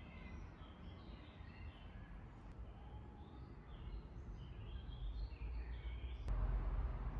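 Songbirds singing: many short chirps and twitters, over a steady low rumble. A click comes about six seconds in, and the rumble is louder after it.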